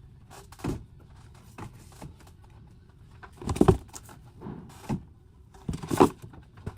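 Scattered knocks, clatter and rustling of merchandise and boxes being handled and unpacked, with the loudest knocks about halfway through and near the end.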